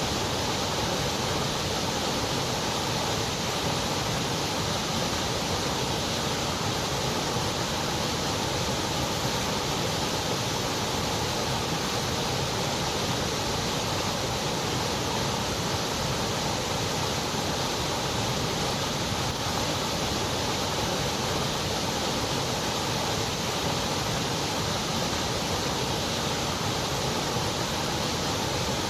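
Continuous white noise: a steady, unchanging hiss with no pattern or breaks, made as a masking sound for sleep and focus.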